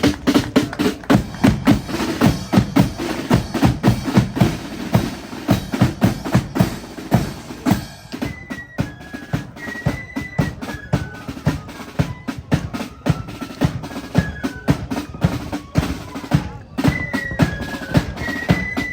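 Marching flute band: snare and bass drums beating out a rolling march rhythm. About eight seconds in, the flutes come in with a high melody over the drums.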